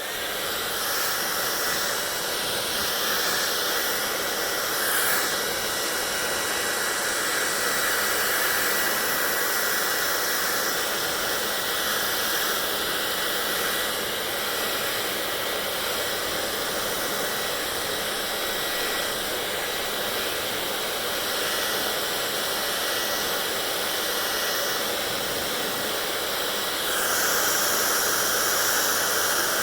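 Hair dryer blowing steadily: an even rushing hiss with a faint thin whine, growing slightly louder near the end.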